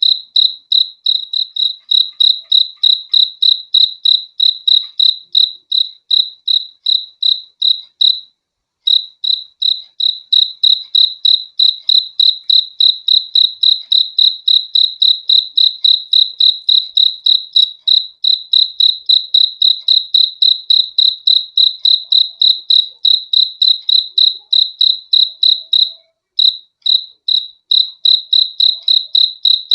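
Cricket chirping close up: a loud, high, evenly repeated chirp about three times a second, stopping briefly twice.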